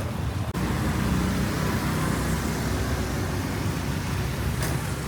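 Street traffic: cars and motorbikes running and passing, a steady low rumble with a hiss over it.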